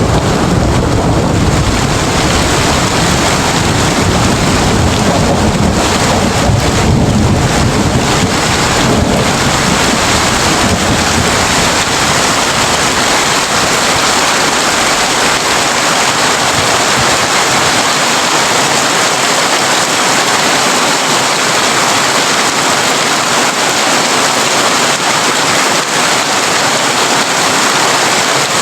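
Heavy rain pattering steadily on a tin roof, with a deep rumble of thunder through the first half that fades away.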